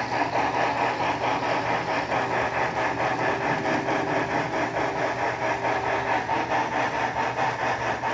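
Recorded steam exhaust chuffs from the TCS WOW sound decoder of an HO-scale brass 2-6-6-2 steam locomotive model, played through its onboard speaker: a quick, even rhythm of about four to five chuffs a second as the model runs.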